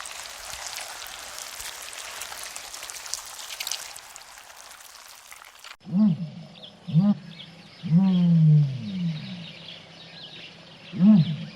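A steady patter like rain or splashing water. After an abrupt cut come four animal calls: two short rising-and-falling ones, a longer call that falls in pitch, and another short one near the end.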